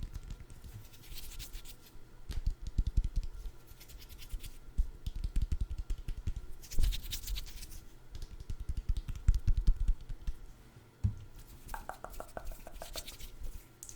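Close-miked scratching and crackling of food items being handled for ASMR, with bursts of crisp, high crackle about a second in and again around seven seconds in, and low rubbing strokes in between.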